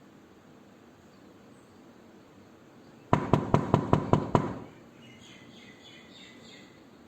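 A rapid run of about eight knocks on a door, about five a second, starting about three seconds in and lasting about a second and a half. Faint high chirps follow over a steady background hiss.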